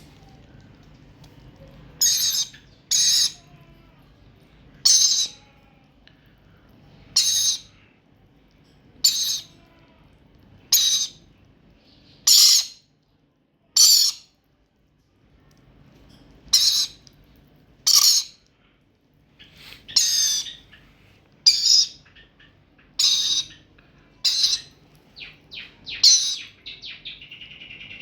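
Young lory parrot giving short, high-pitched calls, one every one to two seconds, about fifteen in all, with a quick run of shorter chirps near the end.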